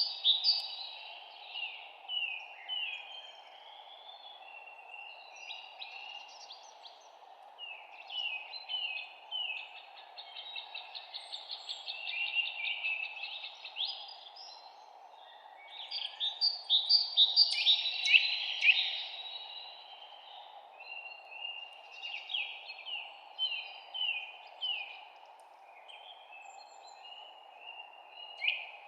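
Several songbirds chirping and singing in a dawn-chorus mix of short chirps and rapid trills, busiest and loudest about two-thirds of the way through, over a steady low background hiss.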